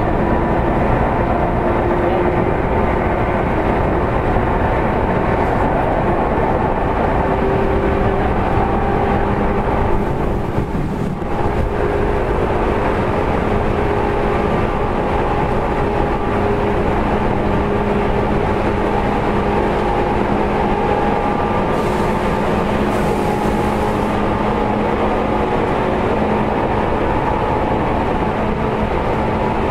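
Seibu 2000 series electric train running at speed, heard from inside the car. Steady wheel-on-rail rumble with motor and gear hum; a low hum comes in about two-thirds of the way through, and the noise briefly drops about ten seconds in.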